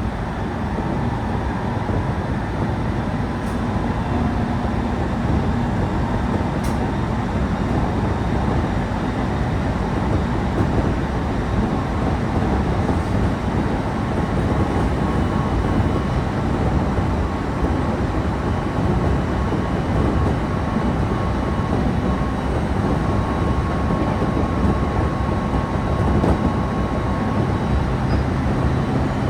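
Electric local train running along the line, heard from inside the passenger car: a steady rumble of wheels on rail with a faint steady high tone above it.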